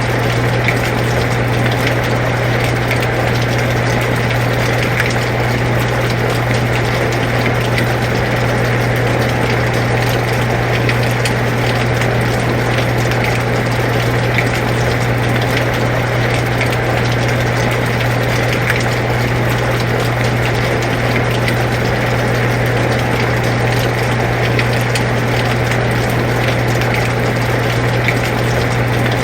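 Air conditioner running with a steady low hum, mixed with steady rainfall and many small drop ticks.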